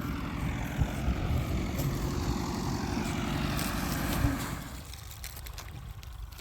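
An engine running with a steady low rumble, then fading away about four and a half seconds in as it moves off.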